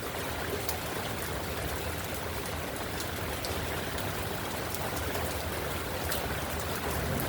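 Heavy downpour: a steady hiss of pouring rain, with scattered sharp taps of individual drops.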